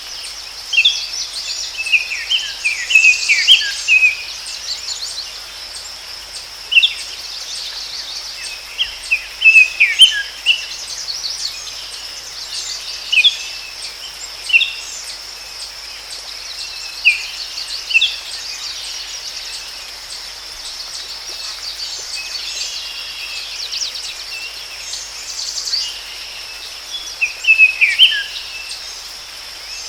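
Forest ambience: a steady, high-pitched insect drone runs throughout, with birds chirping in short bursts of quick, falling notes every few seconds.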